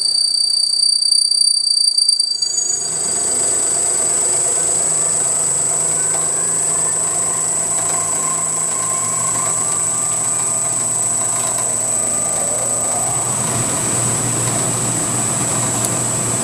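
Belt-drive CNC milling machine spindle running with a high, steady whine while a high-speed-steel end mill cuts a metal part. About two and a half seconds in, a steady rushing noise and a low hum join, which fits the chip blower being switched on, and the low hum grows fuller near the end.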